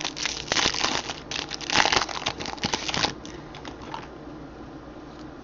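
Foil wrapper of a baseball card pack crinkling and tearing as it is opened by hand, a dense crackle for about three seconds.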